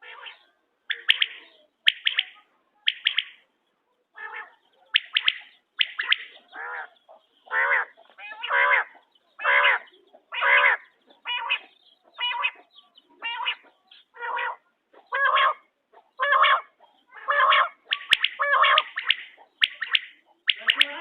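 Quail (bater) calling over and over, a short call about once a second, as used to lure quail for hunting.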